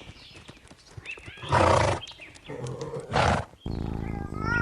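A horse making two short, loud breathy blasts about a second and a half apart. Near the end the sound cuts abruptly to a steady hum with small birds chirping.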